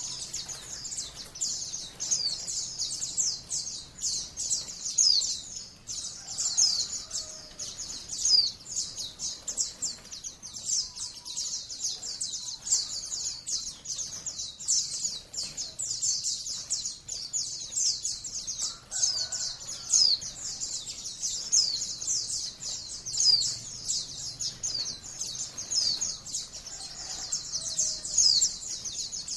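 White-eye (Zosterops, pleci) singing a long, unbroken, high-pitched stream of rapid twittering, with sharp down-slurred notes woven through it.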